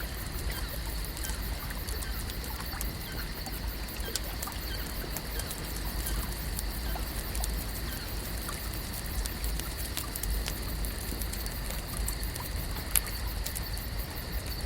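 Lake nature ambience: a steady low rumble under a continuous high-pitched drone, with scattered light ticks and patters of water and one sharper tick near the end.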